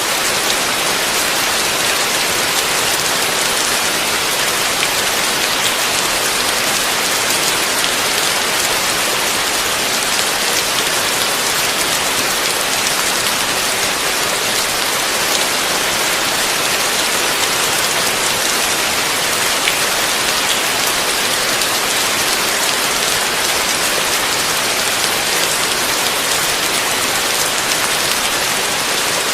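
Heavy rain falling steadily: a dense, even hiss of countless drops that does not let up.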